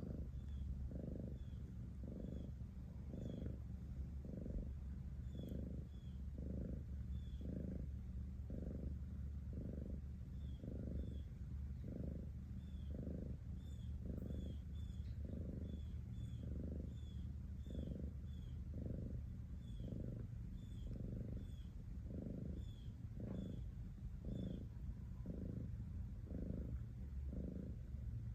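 Domestic cat purring steadily, the purr swelling with each breath about once a second.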